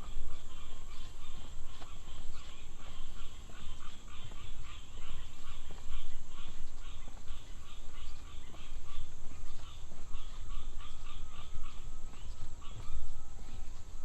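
A chorus of small animals calling in rapid trains of short pulses, several overlapping, with a thin steady whistle joining about ten seconds in. A low rumble runs underneath.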